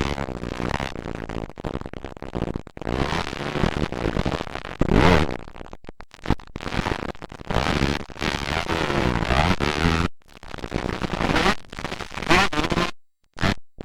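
Motocross dirt bike engines revving up and down as the bikes race past, with the sound cutting out briefly near the end.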